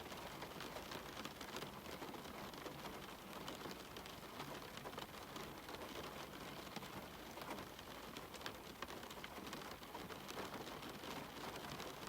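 Steady rain falling, with many separate drops striking sharply throughout.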